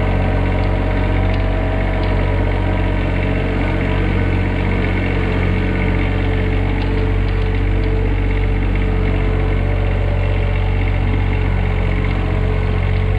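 Compact John Deere tractor's engine running at a steady, unchanging speed, loud and close.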